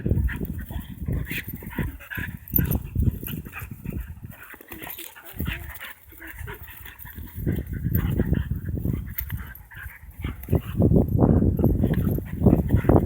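Two dogs, a chow–husky mix and a young Labrador mix, play-fighting, with irregular bursts of dog vocal noise. There is a lull midway, and the noise grows louder near the end.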